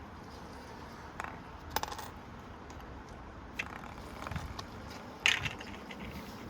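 A coin clinking and rattling inside a Precept washing machine's drum: several separate sharp metallic clinks, the loudest about five seconds in, over a low steady background noise.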